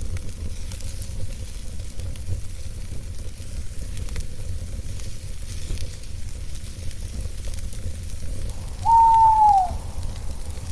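Campfire crackling with scattered small pops over a low rumble. About nine seconds in, a single owl hoot, one short call that drops in pitch at its end, is the loudest sound.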